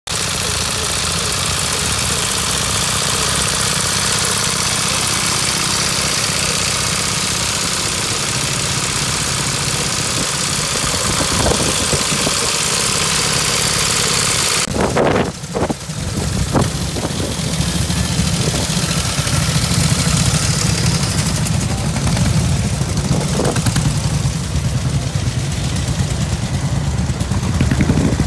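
Pre-1931 vintage motorcycle engines running. The sound changes abruptly about halfway through, to a lower, more throbbing engine note with a few sharp knocks.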